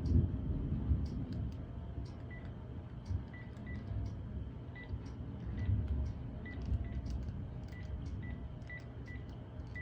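Low rumble of thunder, strongest in the first second and swelling again at intervals, with faint rain ticking. From about two seconds in, short high beeps repeat at uneven gaps, a dozen or so.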